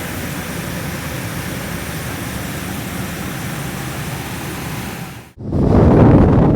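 Steady rushing noise; about five seconds in it cuts off abruptly and louder, lower wind noise buffeting the microphone takes over.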